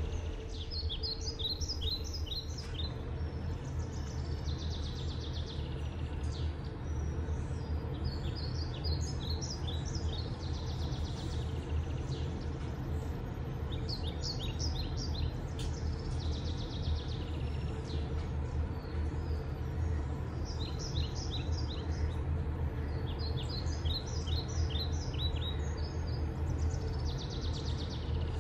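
Songbirds chirping in short bursts of quick, falling notes that come back every few seconds, over a steady low background rumble.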